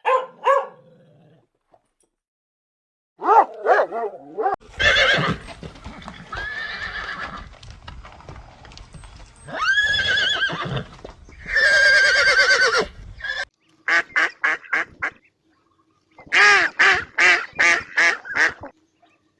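Animal calls: a string of loud pitched cries, some long and wavering, then quick runs of short calls near the end.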